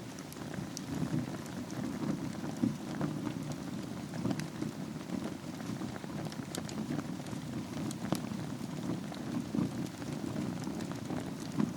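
Wood fire burning in a fireplace over a bed of embers: a steady low rush of flames with scattered sharp crackles and pops.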